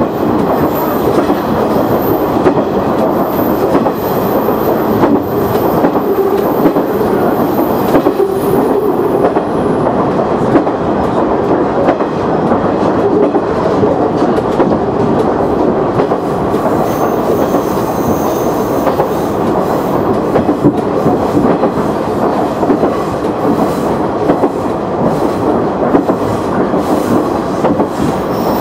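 KiHa 100 diesel railcar running along the line, heard from inside at the front: a steady rumble of wheels and engine, with repeated clicks as the wheels pass over rail joints.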